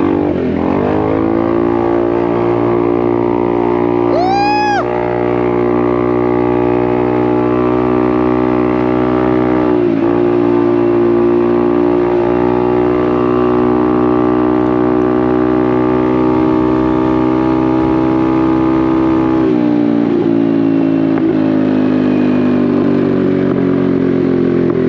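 Honda Navi's single-cylinder engine through a Vance & Hines aftermarket exhaust, running at a steady cruising throttle. Its note dips briefly about ten seconds in and again near twenty seconds. A short high tone rises and falls about four seconds in.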